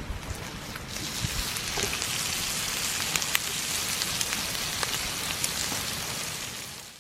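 Bacon and cheese sizzling in a frying pan over a wood fire: a steady hiss with scattered sharp pops, swelling about a second in and fading out near the end.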